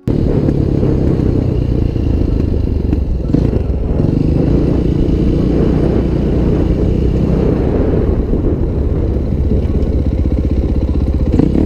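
Motorcycle engine running steadily and loudly, the sound starting abruptly and holding at an even level.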